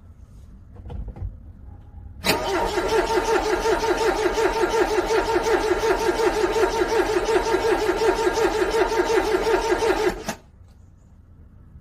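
Car engine being cranked by its starter in freezing cold, a steady rhythmic churning of about five pulses a second for about eight seconds, then stopping abruptly without the engine catching. A faint knock comes about a second in, before the cranking.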